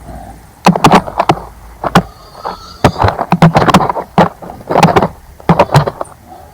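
A bird bathing in a shallow bird bath, splashing the water in a series of loud, irregular bursts.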